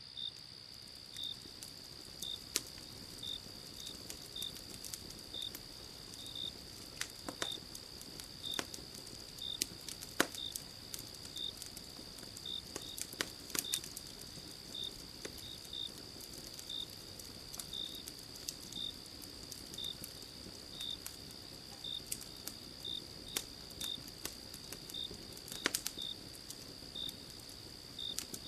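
Wood fire crackling with scattered sharp pops, over a steady high trill of crickets and a second insect giving short chirps about once a second.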